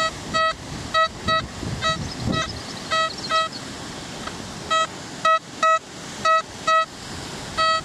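XP Deus metal detector in its Deus Fast program beeping as the coil is swept back and forth over a target very near the surface. The beeps are short, of one steady pitch, and come mostly in pairs, one for each pass. The signal is a high-conductivity target reading 86, which proves to be a pound coin.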